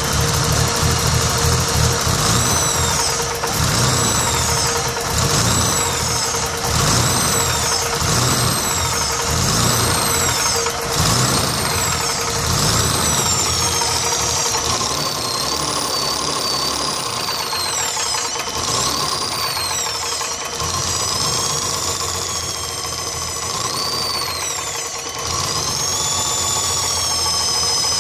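BMW M20B25 straight-six running with the valve cover off. For the first half its revs rise and fall again and again, about once every second and a half, and after that it runs steadier. A knock is heard in it, which the owner places at the exhaust manifold and says does not sound like the bearings.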